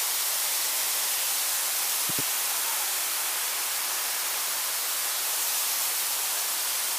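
Steady, even hiss with no pattern, strongest in the high pitches, and a quick double knock about two seconds in.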